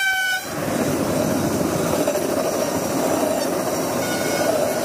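A train horn blast that cuts off about half a second in, followed by the steady running noise of a train on the track.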